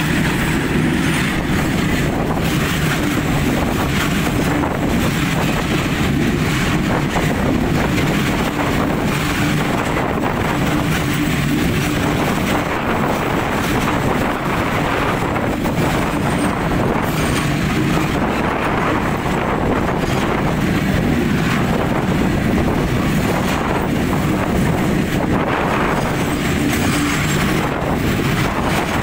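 Freight train wagons rolling past at track level: a steady, loud noise of steel wheels running on the rails.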